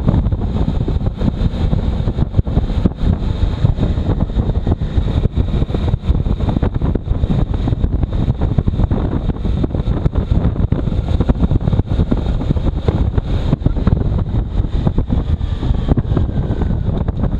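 Heavy wind buffeting the microphone of a motorcycle moving at speed, a dense low rumble full of rapid crackles, with the bike's running noise mixed in underneath.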